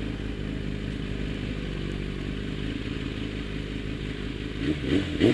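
Motorcycle engine idling steadily. A man's voice starts up near the end.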